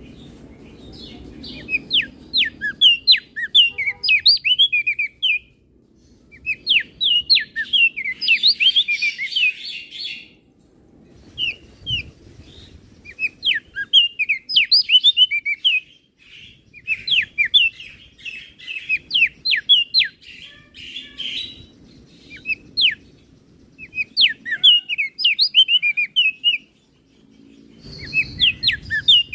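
Crested darkeye (opior jambul) singing: phrases of rapid, high chirping notes a few seconds long, repeated with short pauses between them.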